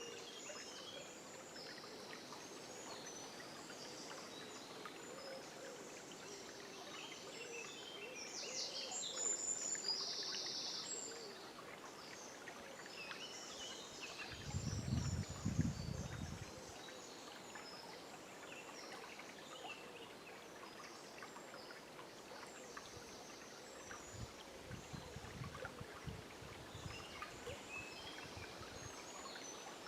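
River water flowing steadily, with birds calling and singing over it at dawn, busiest about a third of the way in. A low rumble rises twice, briefly in the middle and again for a few seconds later on.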